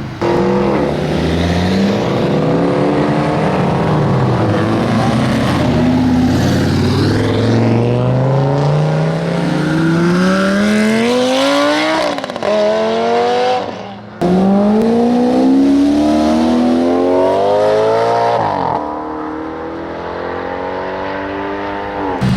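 Lamborghini engine accelerating hard. Its pitch climbs steadily and then drops sharply several times as it shifts up through the gears.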